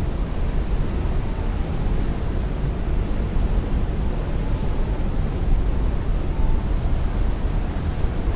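Heavy rain beating on a window with strong wind, a steady dense wash of noise heaviest in a deep low rumble.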